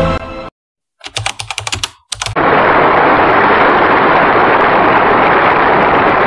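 Music stops. A quick clatter of sharp clicks follows for about a second and a half. Then a loud, steady crowd roar from an old, dull-sounding archive film recording fills the rest.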